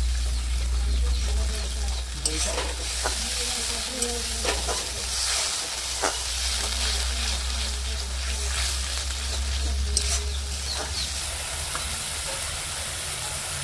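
Onion paste sizzling and frying in hot oil in a steel kadai while a spatula stirs it, scraping and knocking against the pan a few times. A low steady hum runs underneath for most of the time.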